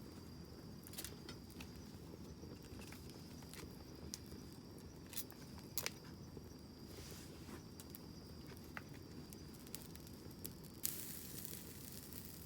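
Wood campfire burning, a low steady rumble of flames with scattered sharp crackles and pops, the loudest about eleven seconds in. A steady hiss begins right after that pop.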